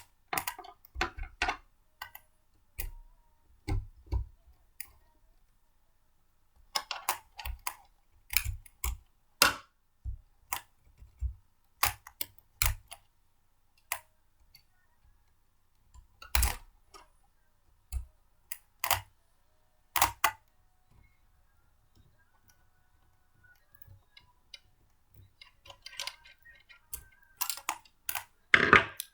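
Blender parts being handled and fitted together: irregular clicks and knocks in clusters, with short pauses between.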